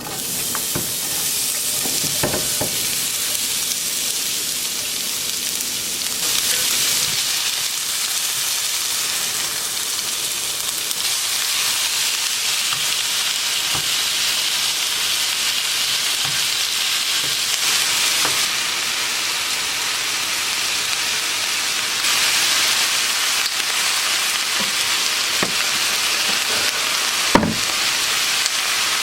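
Potatoes frying in a pan, with a steady sizzle that starts all at once. A utensil knocks against the pan a few times, most sharply near the end.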